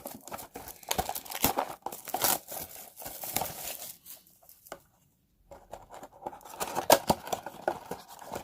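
Trading-card blaster box being torn open: the packaging crinkles and tears in irregular spurts, with a short pause about five seconds in.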